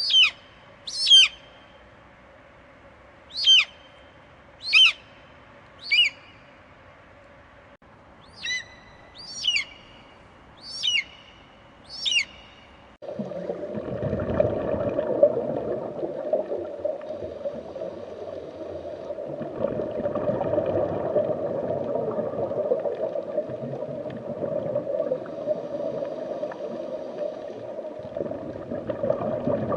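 A series of nine short, sharp animal calls, each falling steeply in pitch. Then, about thirteen seconds in, an abrupt change to a steady rushing noise.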